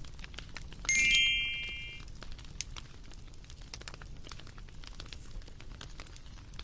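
Bonfire crackling with scattered sharp pops. About a second in, a bright chime of several high ringing notes sounds, the loudest thing here, and fades over about a second.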